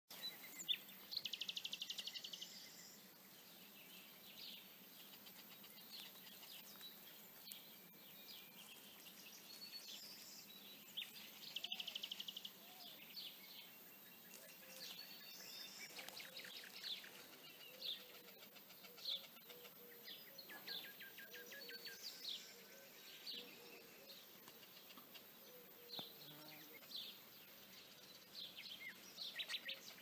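Small birds calling: short high chirps scattered throughout, with three louder bursts of fast chattering notes, about a second in, near the middle and again about two-thirds of the way through.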